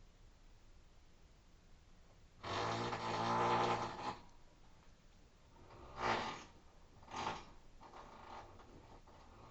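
Rotary hammer (perforator) drilling in bursts with a buzzing rasp: one of about a second and a half, then three shorter ones.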